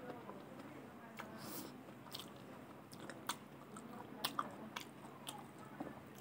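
Close-up chewing of a mouthful of rice and fried green beans with potato, with irregular short wet smacks and clicks of the mouth.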